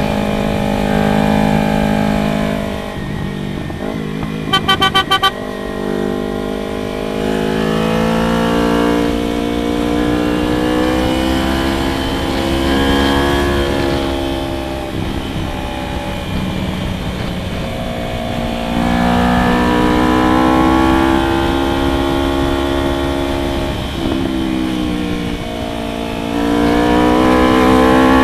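Motorcycle engine running under way, its pitch climbing and dropping several times as it accelerates and shifts gears. About four and a half seconds in, a horn sounds a quick run of short beeps.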